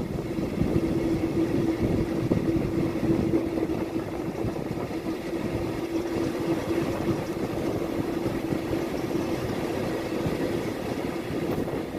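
Passenger train running, heard from an open coach window: a steady rumble of wheels on the track and rushing air, with a steady hum that fades out near the end.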